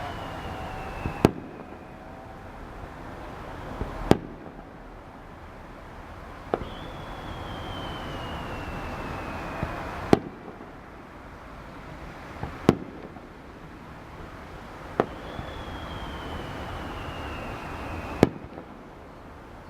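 Aerial fireworks going off: sharp bangs every few seconds. Three times a high whistle slowly falls in pitch for about three seconds and ends in a loud bang.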